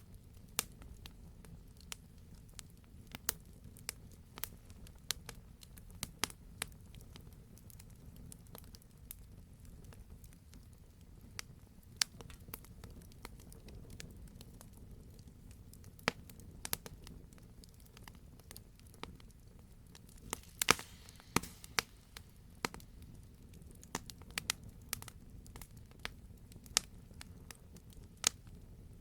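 Wood fire crackling, with sharp pops scattered irregularly over a low steady rumble; a quick cluster of louder pops comes about two-thirds of the way through.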